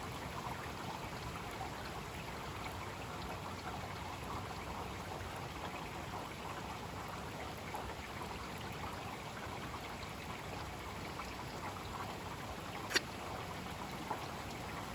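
Heavy rain falling steadily in a thunderstorm, an even hiss of rain with dripping and trickling water. A single sharp click sounds about thirteen seconds in.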